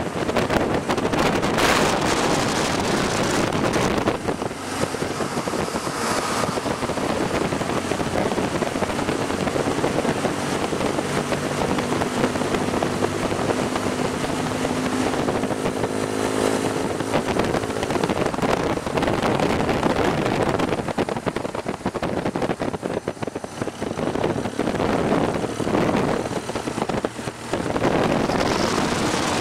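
Motorcycle being ridden, its engine running under heavy wind rush on the microphone; a steady engine note stands out for a few seconds midway.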